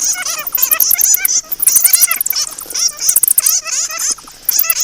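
Fruit bats (flying foxes) calling: many shrill, wavering squeals and chattering calls overlapping in quick runs, with a short lull near the end.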